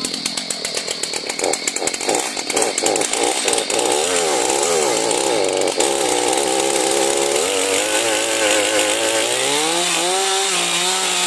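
Chainsaw running and cutting into a tree trunk. It starts with rapid, uneven firing strokes, then its engine note wavers up and down as it labours through the wood, and near the end the pitch rises and steadies.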